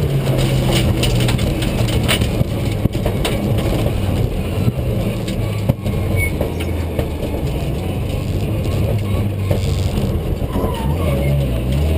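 Rally car's engine heard from inside the cabin at speed, running hard with clicks and rattles from the car's body. The engine note dips late on and starts to climb again right at the end as the car accelerates.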